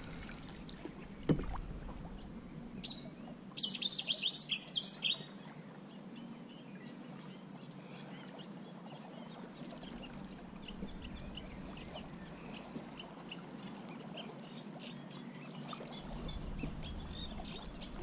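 Birds calling: a quick run of sharp, high chattering notes about three to five seconds in, then faint scattered chirps, over quiet water, with a single knock about a second in.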